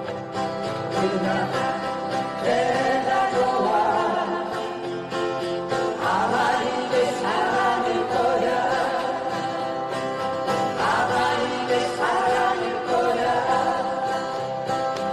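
A song being performed, with singing voices over instrumental accompaniment.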